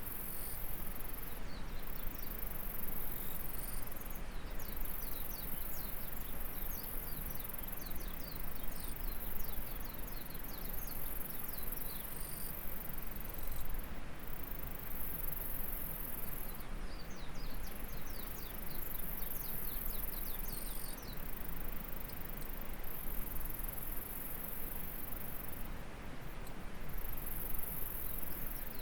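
Insects buzzing, a very high continuous trill that breaks off and resumes every few seconds, with runs of quick short chirps, over the steady rush of flowing stream water.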